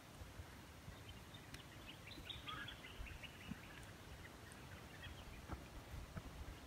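Faint outdoor ambience with a low steady rumble. A bird calls in a quick run of high chirps from about a second in, the notes sliding slightly lower over about four seconds before fading.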